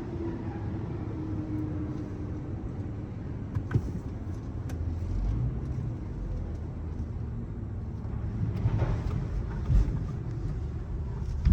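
A car's engine and road noise: a steady low rumble with a few short knocks.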